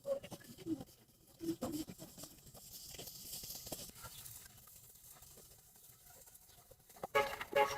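Rustling and crackling of dry rice stalks being cut and handled by hand, many small irregular snaps and a hissing rustle, with a brief voice-like sound near the end.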